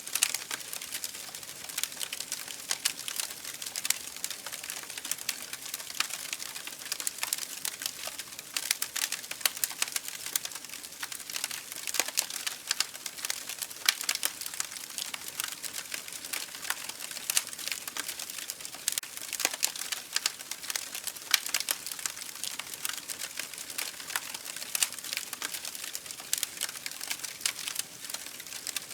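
Campfire burning, with dense irregular crackles and sharp pops of burning wood over a soft hiss.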